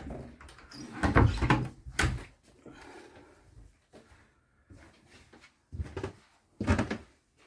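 A small cupboard door being opened and shut, with a few knocks and bumps: a cluster about a second in, another at two seconds, and two more near the end.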